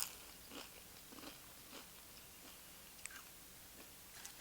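Tortilla chips being chewed close to the microphone: a crunch at the start, then a few faint, soft crunches as the mouthful is chewed.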